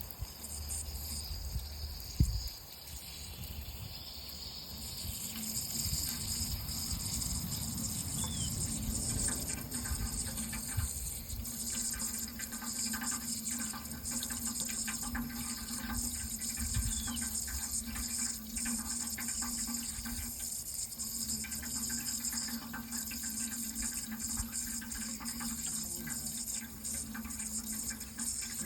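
Water running in a steady hissing flow that grows stronger about five seconds in, with a low steady hum under it. A single sharp knock comes about two seconds in.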